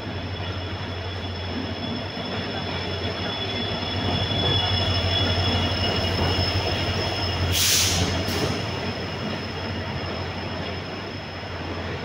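Diesel locomotive and passenger coaches running slowly into a station platform, the arrival of a train. A low engine drone swells as the locomotive passes, with a steady high wheel squeal, and there are two short bursts of hiss about two-thirds of the way in.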